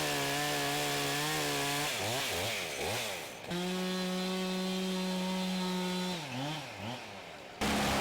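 Chainsaw engine running at high speed, held steady for a couple of seconds at a time, with quick revs up and down in between. It cuts off abruptly near the end.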